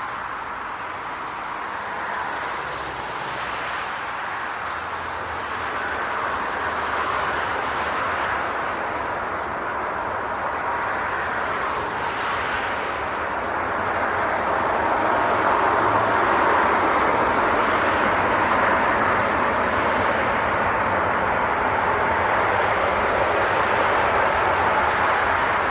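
Jet airliner engines running, a steady rushing noise with a faint whine, growing louder about halfway through.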